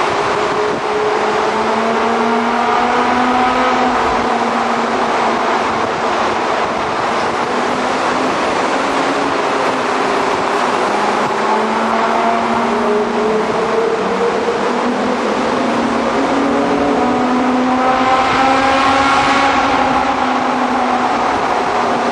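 Mitsubishi FTO car engines accelerating through a road tunnel, the engine note climbing and dropping several times as they pull through the gears, over steady tyre and road noise.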